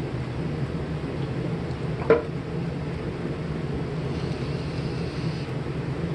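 Forge running with a steady roar, and one light metallic clink about two seconds in.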